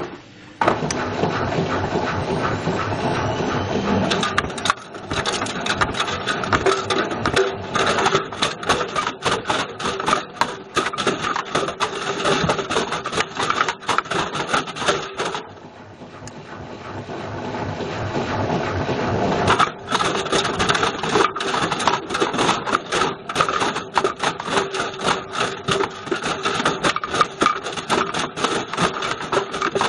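A Bush VCR807 video recorder clattering and banging around inside a turning washing machine drum: a fast, dense run of knocks and rattles. A few seconds past the middle it goes quieter and then builds back up to the same clatter.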